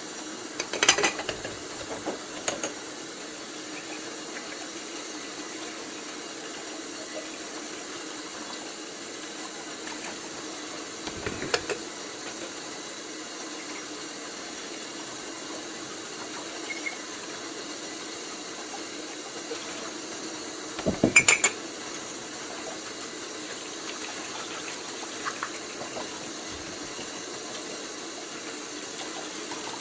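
Dishwashing at a sink: dishes and pots clatter against each other in a few short bursts, the loudest about two thirds of the way through, over a steady hiss.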